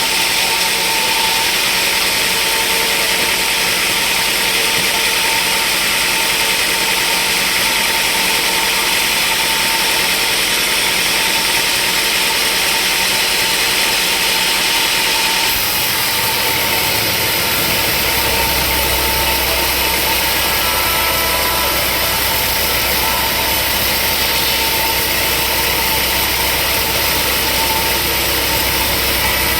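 Sawmill machinery running steadily, a loud mechanical noise with a constant whine. About halfway through the sound shifts abruptly and a deep low hum comes in.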